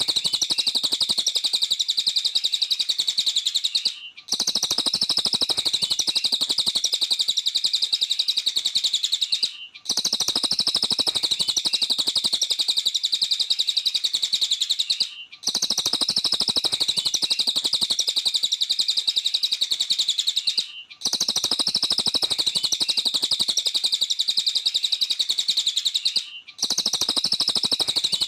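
Cililin songbird singing nonstop: a dense run of rapid, high chirping notes. The song repeats in stretches of about five and a half seconds with a short break between each, as in a looped recording.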